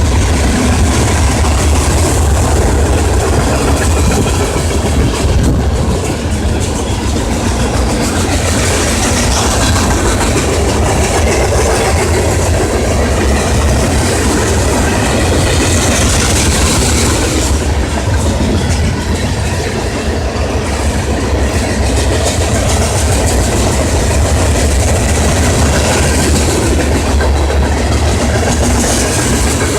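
Train with a Mack engine running: a steady low engine drone over continuous wheel-and-rail noise.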